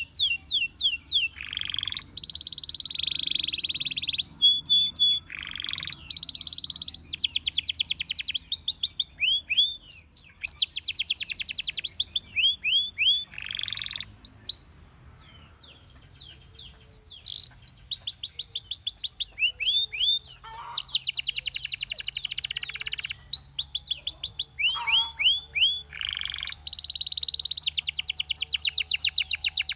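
Belgian canary singing: fast trills of rapidly repeated high notes and downward-sweeping whistles, with a short pause about halfway through.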